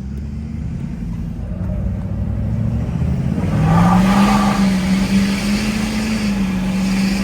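Ford F-350 turbo-diesel pickup accelerating hard, heard from inside the cab: the engine note climbs about halfway through and then holds steady as the truck pulls.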